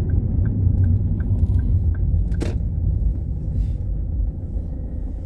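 Steady low road and engine rumble inside a moving car. A turn-signal indicator ticks about two and a half times a second and stops about two seconds in, followed by a single sharp click.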